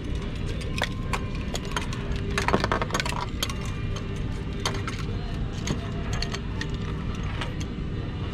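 Scattered clicks and knocks of fittings and tubing being handled and disconnected, with a cluster about two and a half to three seconds in, over a steady low hum.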